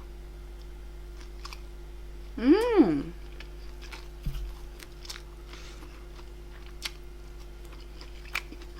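Mouth-eating sounds of chewing with scattered small clicks and taps. About two and a half seconds in comes one short, loud voiced hum whose pitch rises and then falls, like an "mm" of relish.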